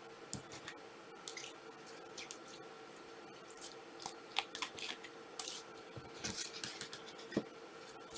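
Trading-card boxes and their wrapping being handled: scattered short rustles, scrapes and clicks, busiest in the second half. A faint steady hum lies underneath.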